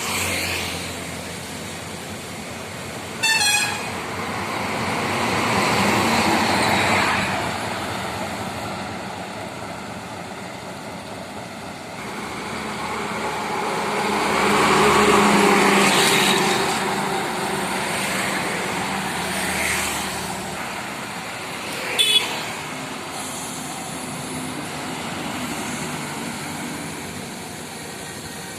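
Road traffic with heavy container trucks passing, the noise swelling and fading twice as they go by. Two short horn toots cut through, one a few seconds in and one past the middle.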